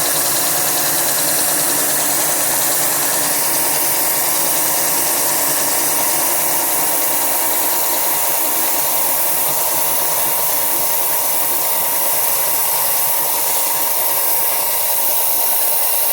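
Benchtop belt sander running steadily, a rough-cut board's edge pressed against the moving sanding belt to smooth it, with a constant whine through the noise.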